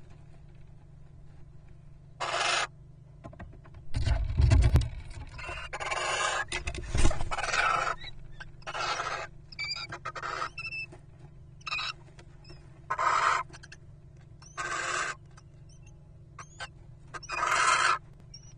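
Little owls giving harsh, rasping calls in short bursts every second or two, with a few heavy thumps about four and seven seconds in.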